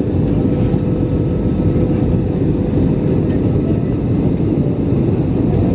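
Steady cabin noise inside an Airbus A319 airliner in flight on approach: the even roar of airflow and jet engines, with a faint steady tone running through it.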